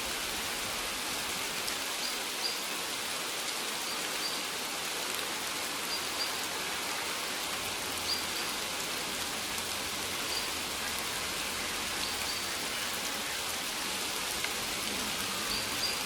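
Steady rain falling, an even hiss, with scattered short, high plinks every second or two.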